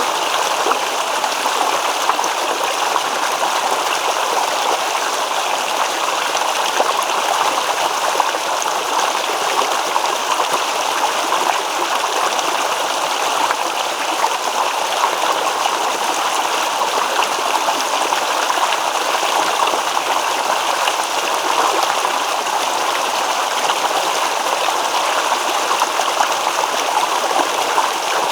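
Shallow stream babbling and gurgling over stones, a steady rush of running water with fine trickling and splashing detail.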